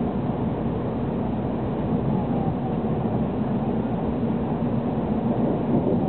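Steady running noise inside the passenger cabin of a 700 Series Shinkansen: an even rumble of wheels on rail, with a faint low hum beneath it.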